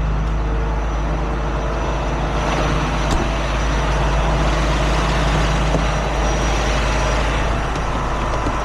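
Tow truck's diesel engine running steadily as the truck pulls ahead at low speed, with a single sharp click about three seconds in.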